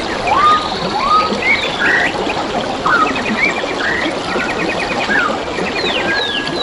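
Several forest birds chirping and calling together, with rising whistles, falling sweeps and rapid trills, over a steady trickle of running water.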